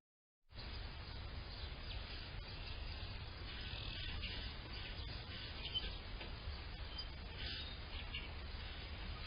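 Faint scattered songbird chirps over a low steady rumble, starting after a half-second gap of silence.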